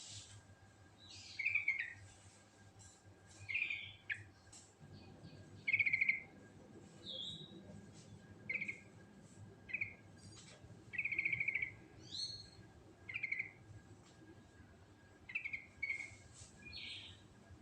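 Yellow-vented bulbul (trucukan) singing: short, bubbly phrases with quick trills, repeated every second or two.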